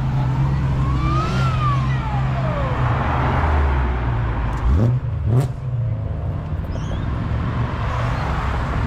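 Car engines running close by with a steady low rumble. One engine revs up and back down about a second in. Two quick, sharp revs come around five seconds in, the second ending in a sharp crack.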